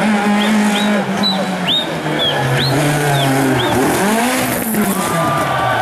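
Hill-climb race car engine running hard, its pitch stepping down once and then bending up and down as the car goes past. A series of short high-pitched chirps sounds over it in the first few seconds.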